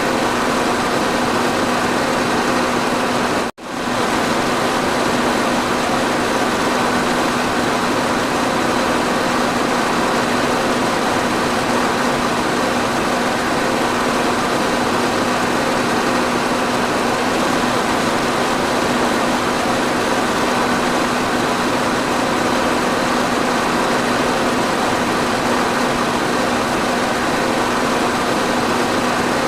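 Electric fan running steadily: an even rush of air with a low, steady motor hum beneath it. The sound drops out for a split second about three and a half seconds in, then carries on unchanged.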